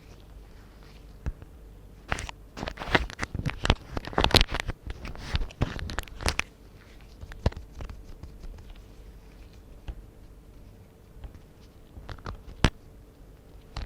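Rubber-gloved hands tapping, scratching and crinkling close to a microphone: a busy run of quick sharp clicks and crackles for a few seconds, then a couple of single taps.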